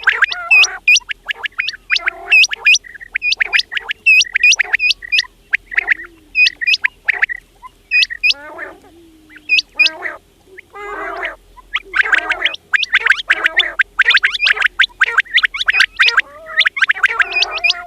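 Quails calling: a quick series of short, sharp calls in bursts with brief gaps. The calls crowd together into almost continuous chatter over the last seven seconds.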